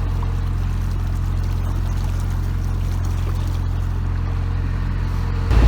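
Narrowboat's diesel engine running steadily at cruising speed, a low drone, which gets suddenly louder near the end.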